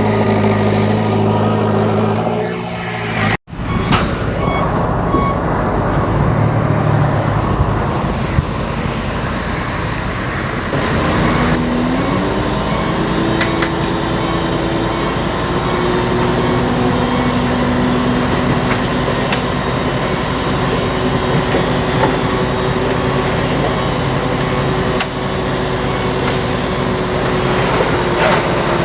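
Heavy diesel engines of construction machinery running under load. The sound breaks off abruptly for an instant about three seconds in, and around twelve seconds an engine's pitch rises and then holds steady.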